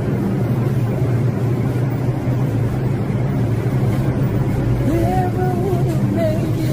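Subway train running, a steady low rumble and hum heard from inside the car. A voice briefly joins about five seconds in.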